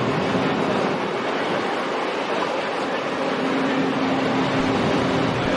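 Boat engines running steadily under a constant rush of water and wind noise, with a faint engine hum that fades in and out.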